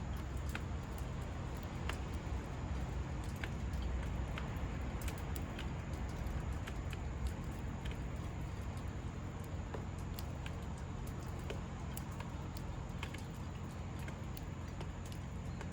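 Irregular light clicks and taps, a few a second, from sparrows pecking and hopping at a seed feeder, over a steady low rumble.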